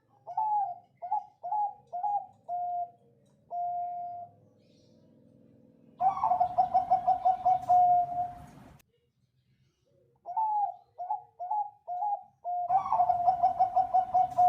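Zebra dove (perkutut, Bangkok song strain) cooing. It gives a phrase of five or six short clipped coos, then a fast rolling trill of coos lasting a couple of seconds. After a pause of about a second and a half, the same phrase starts again.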